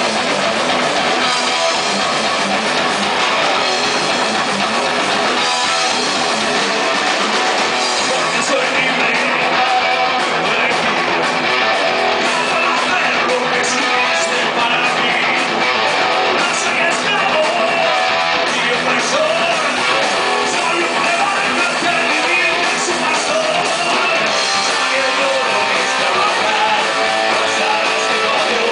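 Rock band playing live, electric guitar to the fore. The sound is dense, steady and loud, thin in the bass.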